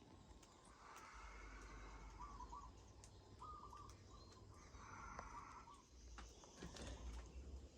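Near silence with a few faint bird calls, some in short quick runs of notes, over a low rumble.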